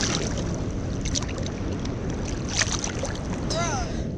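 Jet ski engine running on the water, with splashing and wind on the microphone, and a brief falling tone near the end.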